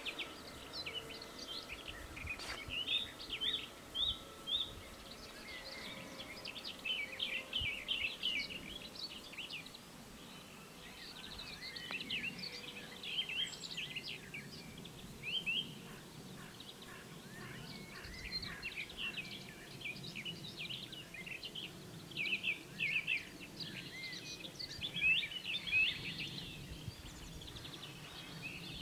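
Small birds chirping and singing, many short calls in quick runs, over a low steady background hum of open countryside.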